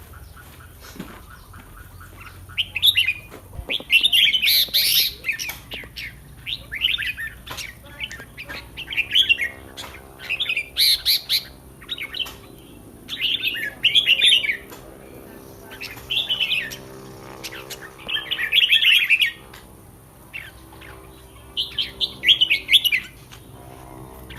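Caged red-whiskered bulbul singing: short bright song phrases repeated about once a second, some longer and some clipped, with brief pauses between.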